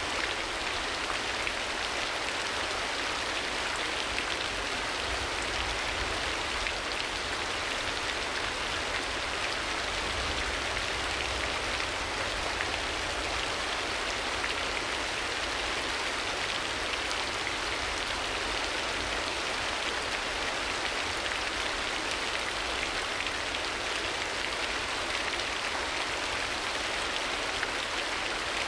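Steady rain ambience: a constant, even hiss of rainfall.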